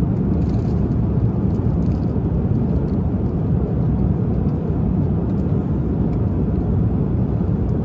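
Steady low noise of an airliner cabin in flight, with a few faint light clicks now and then.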